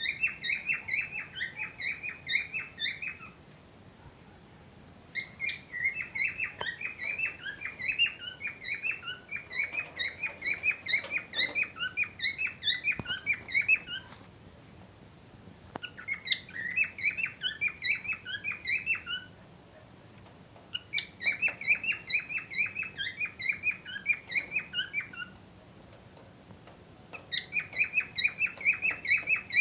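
Cockatiels chirping in quick, repeated bursts, several short chirps a second, in five bouts broken by short pauses of about two seconds.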